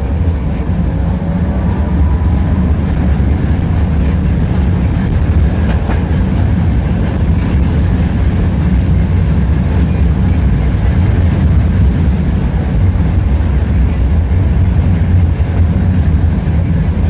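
Tram running along the track, heard from inside the car: a steady rumble of the wheels on the rails, with a faint rising whine in the first couple of seconds.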